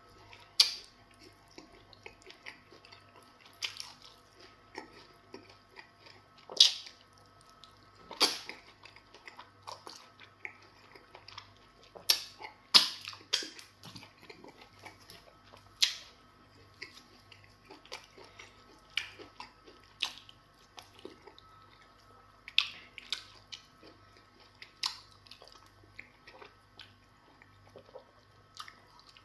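Close-miked mukbang eating sounds: a person chewing semo fufu with spinach soup eaten by hand, with irregular sharp wet smacks and clicks of the lips and mouth every second or two.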